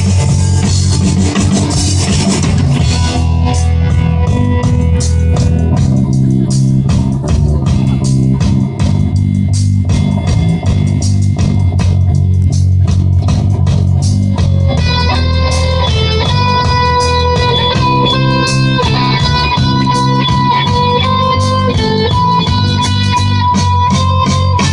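Rock music with guitar, bass and drums, and no singing. About fifteen seconds in, a line of long held notes comes in over the band.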